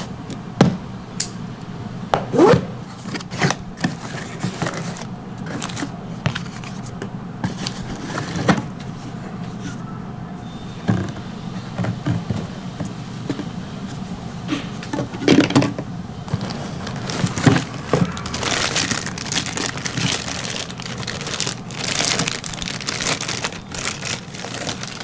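Cardboard and plastic packaging being handled: irregular scrapes, rustles and small knocks, busier in the last few seconds.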